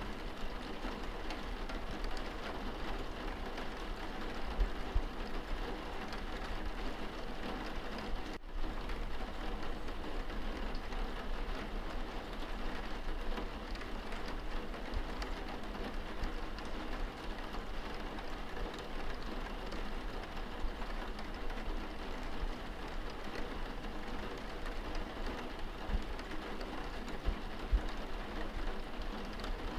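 Rain on window glass, heard from indoors: a steady patter of drops with an occasional louder tap. A split-second dropout about eight seconds in.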